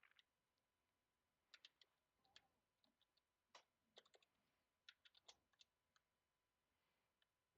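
Faint computer keyboard typing: scattered keystroke clicks in short irregular runs.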